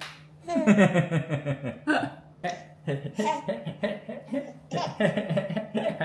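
A person laughing: a long falling laugh, then a run of short laughing bursts, over a steady low hum.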